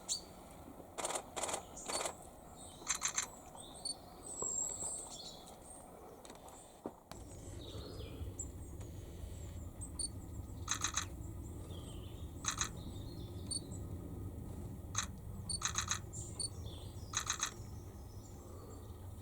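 Small birds chirping faintly in the background, broken by about ten short bursts of rapid sharp clicking. A low steady rumble comes in about seven seconds in.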